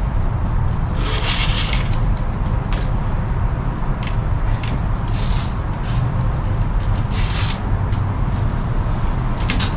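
Bankline cord being wound and pulled tight between wooden sticks to frap a lashing: several rubbing, scraping swishes of cord on wood, with a few light clicks.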